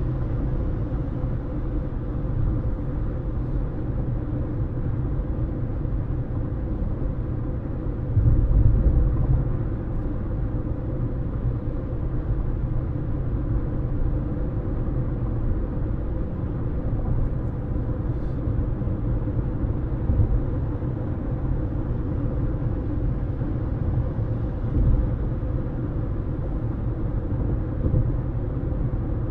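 Car on the move: steady low rumble of tyres on the road and the engine, with a faint steady hum above it. About eight seconds in the rumble swells louder for a second or so, with a few smaller swells later.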